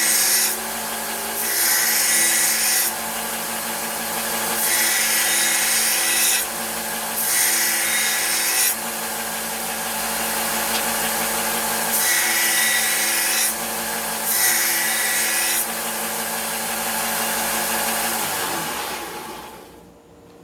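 Belt sander running with a steady motor hum while a steel meat cleaver's edge is ground on the belt in about six passes, each a loud hiss lasting one to two seconds, to put a new bevel on a chipped edge. Near the end the sander is switched off and its pitch falls as it winds down.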